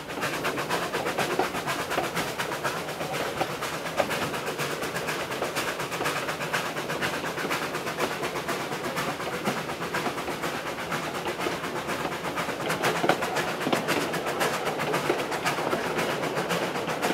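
Narrow-gauge steam train running, heard from on board: a steady, dense rattle and clatter of the moving train.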